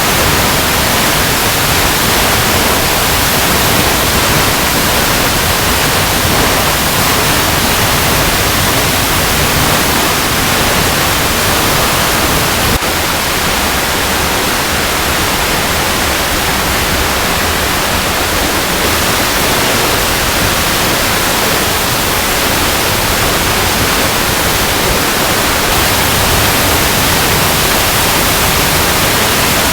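Waterfall rushing steadily over rocks: a loud, unbroken hiss of falling water with no breaks or separate splashes, its texture shifting slightly about 13 seconds in.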